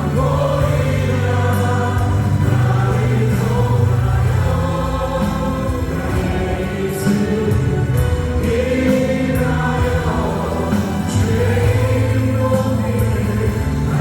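Praise band playing a worship song, with several singers over keyboards, drums and acoustic guitar.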